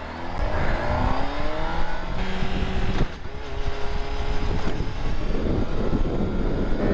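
Honda CBR sportbike engine pulling away, its pitch rising as it accelerates, then dropping with upshifts about two seconds and three seconds in and running steadier after. A heavy low wind rumble sits under the engine.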